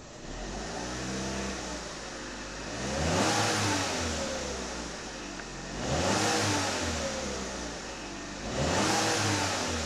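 Holden Trax's 1.4-litre turbo petrol four-cylinder engine revved in Park, heard from inside the cabin: three blips about three seconds apart, each rising in pitch and falling back to idle.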